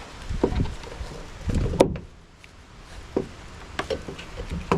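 Scattered knocks and clicks of hand tools and metal parts being handled while the fridge's compressor is cut free, with one sharp click, like a cutter snip, just before two seconds in.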